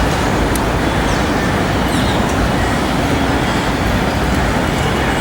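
Steady loud rumble of engine noise without let-up, with small birds chirping over it several times.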